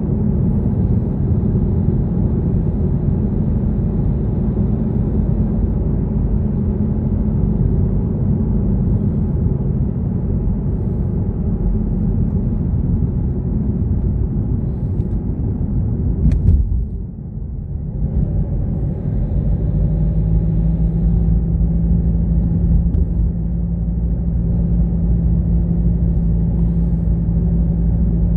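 Car driving, a steady low rumble of engine and road noise. About two-thirds of the way through there is a sharp click and the noise briefly drops, then the rumble returns with a steady hum added.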